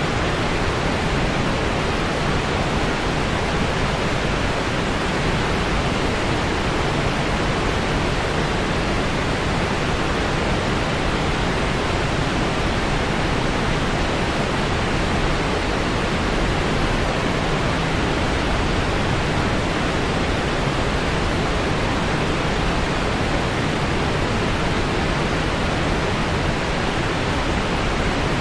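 Steady white noise: an even, unchanging hiss that does not vary at any point.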